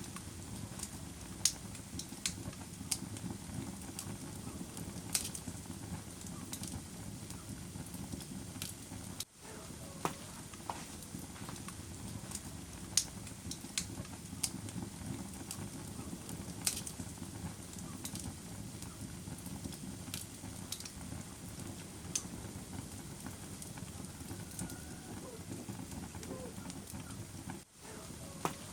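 Wood fire crackling in a fireplace: a steady low rumble of burning with sharp pops and crackles every second or two. The sound drops out for an instant twice, about nine seconds in and near the end.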